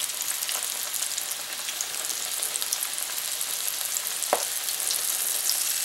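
Flour-dredged turkey gizzard, liver and heart pieces frying in hot grease in a cast-iron skillet, just dropped in: a steady sizzle with fine, rapid crackling.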